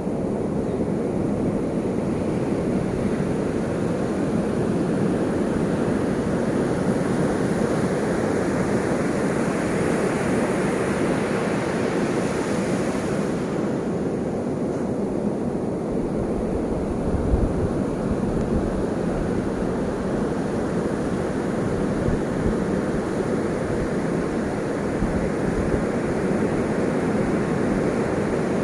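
Ocean surf washing continuously, swelling and easing slowly over several seconds, with a brief low rumble about two-thirds of the way in.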